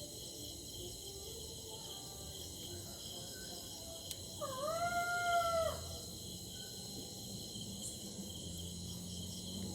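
Night ambience of chirping crickets, with one eerie howl about four and a half seconds in that dips, rises and holds for just over a second: a spooky ghost sound effect.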